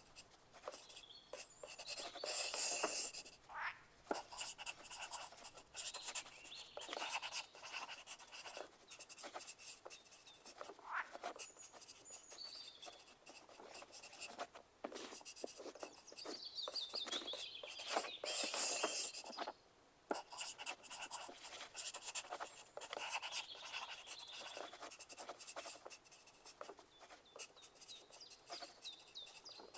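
Pencils writing on paper: a steady run of irregular scratching strokes and small taps. The scribbling comes on loudest a couple of seconds in and again just past halfway.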